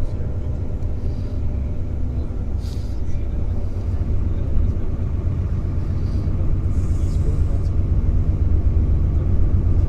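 Bus driving along a road, heard from inside the passenger cabin: a steady low rumble of engine and tyres.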